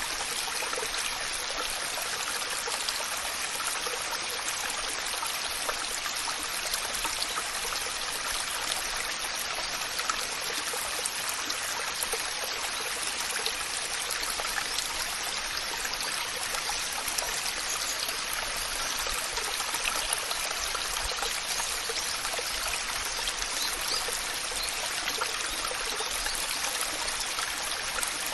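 Waterfall: water falling and splashing in a steady, unbroken rush, mostly a bright hiss with little deep rumble.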